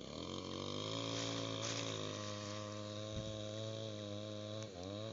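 A small engine running steadily, its pitch dipping briefly and recovering near the end.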